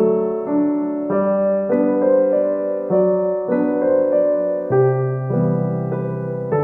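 Background piano music: slow chords and notes played on an electric piano.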